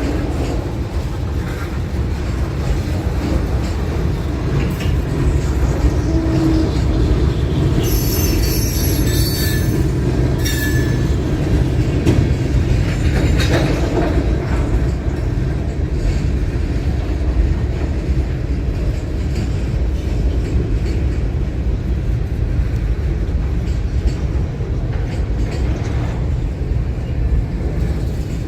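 A train rolling past with a steady heavy rumble. About eight seconds in, its wheels squeal on the rail in high thin tones for two or three seconds.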